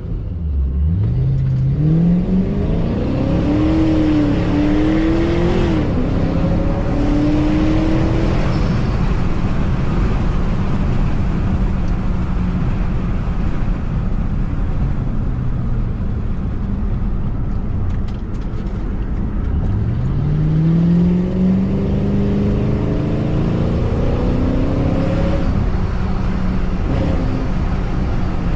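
Supercharged 2006 Ford Mustang GT 4.6 V8 accelerating hard, the engine note climbing through the gears in the first several seconds, then running steadily at cruise before pulling up again twice in the second half.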